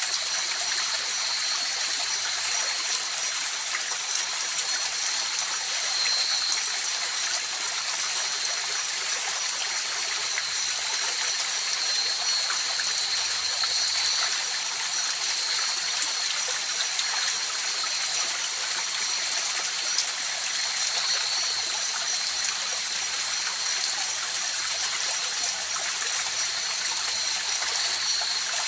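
A river flowing over stones, a steady rushing hiss with trickling and gurgling, under a steady high-pitched drone of night insects.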